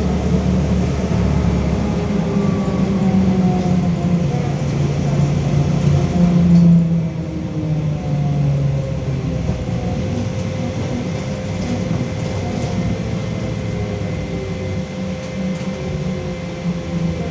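LiAZ-5280 trolleybus riding, heard from inside the cabin: the DK-213 traction motor's whine falls in pitch as the vehicle slows, over a steady running rumble. The rumble is loudest about six and a half seconds in.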